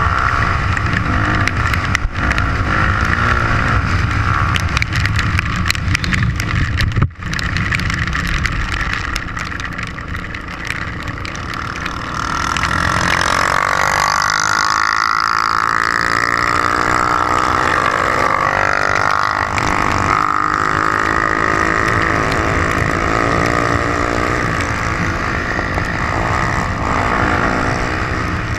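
Trail motorcycle engine running under way, its pitch rising and falling from about halfway through.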